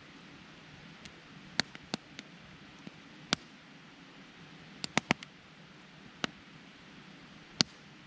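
Wood campfire crackling: sharp, irregular pops over a steady low hiss, with a quick cluster of three about five seconds in.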